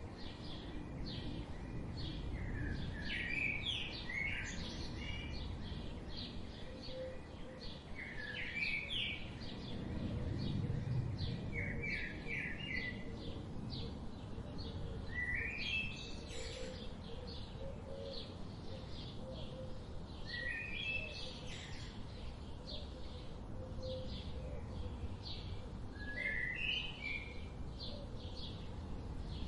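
Birds chirping: one bird repeats a short phrase of quick rising notes every few seconds, over many faint, rapid chirps from other birds and a low, steady background rumble.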